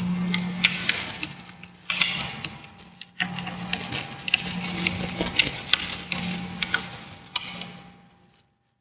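Quarter-inch click-type torque wrench with an 8 mm socket ratcheting in short runs of sharp metallic clicks as bus bar nuts are torqued to 55 inch-pounds. The sound cuts off near the end.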